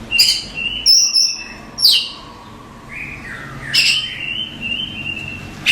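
Oriental magpie-robin singing: a run of varied whistled phrases, held clear whistles broken about every two seconds by sharp sweeping notes.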